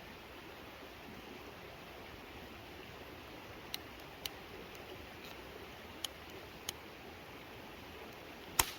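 Steady faint rush of a mountain stream, with a few sharp pops from a wood campfire, about five in all, the loudest near the end.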